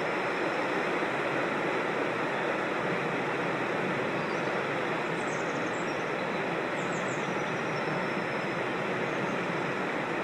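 Rushing stream water, a steady full rush. A small bird chirps faintly above it, a few quick high falling notes about five and again about seven seconds in.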